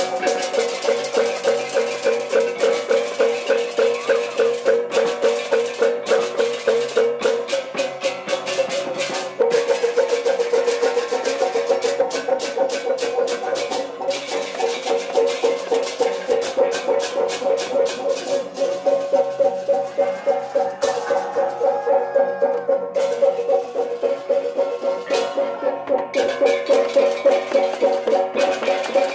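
Balinese gamelan music: metallophones and percussion playing a fast, even pulse around a steady pitched melody.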